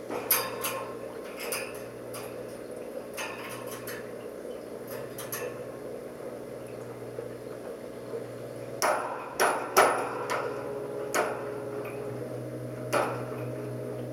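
Irregular sharp taps and clicks, loudest in a cluster about two-thirds of the way through, over a steady low hum.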